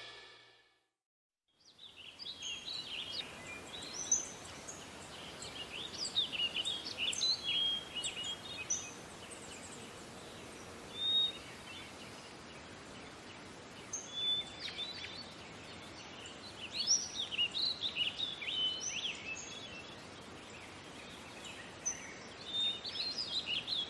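Small birds chirping and twittering in short clusters over a faint steady hiss, beginning about two seconds in after a brief silence.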